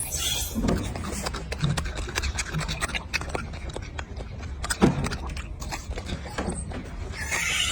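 Monkey chewing raw carrot: irregular crisp crunching clicks over a steady low rumble.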